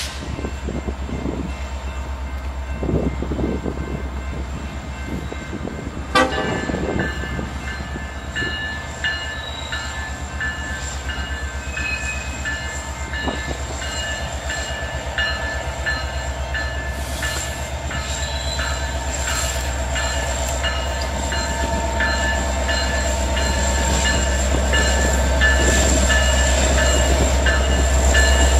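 BNSF freight train with diesel locomotives approaching, its engines rumbling louder as they draw near. From about six seconds in, the locomotive bell rings steadily and repeatedly.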